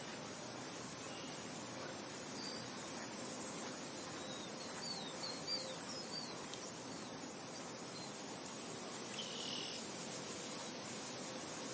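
Steady wind noise, an even rushing hiss. A run of short, high chirps comes through in the middle.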